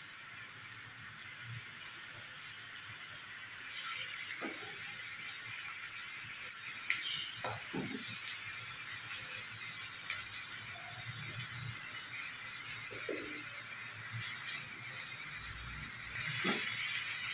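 Beef keema patties sizzling on a tawa griddle, a steady high hiss, with a few soft taps as more patties are set down on the pan.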